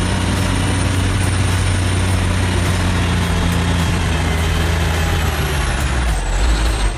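Heavy diesel truck engine running steadily under load, with a faint high whine that drops in pitch about six seconds in.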